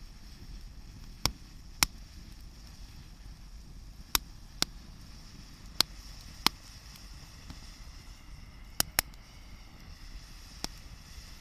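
Wood campfire crackling: sharp pops and snaps at irregular intervals, about nine in all, some in quick pairs, over a steady low rumble and hiss.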